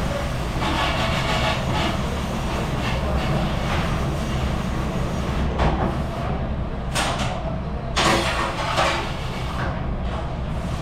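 Commercial dishwashing machine running with a steady low rumble and wash noise, with dishes and racks clattering, sharpest about seven and eight seconds in.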